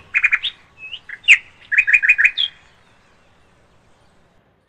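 Birds chirping: a quick run of short, high chirps and trilled notes, including a row of about four repeated notes, stopping about two and a half seconds in.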